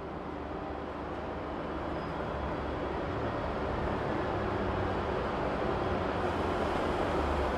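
City bus running, heard from inside: a steady engine and road rumble with a low hum, growing steadily louder.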